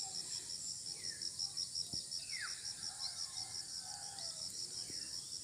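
Insects chirping in a steady rapid pulse, about six a second, over a continuous high hiss of other insects, with a few faint bird calls.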